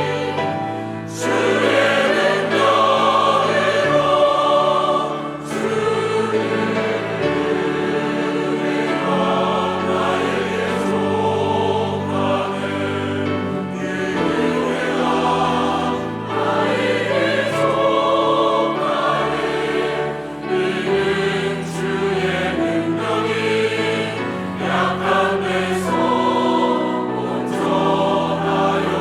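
Church choir singing a Korean worship anthem in full harmony, accompanied by piano, organ and a small orchestra of strings, winds and percussion, with sharp percussion strikes every few seconds.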